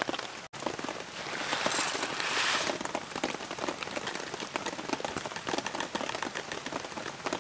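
Steady heavy rain falling, with many small ticks of individual drops and a swell about two seconds in, over a wet wood campfire hissing. The sound cuts out for an instant about half a second in.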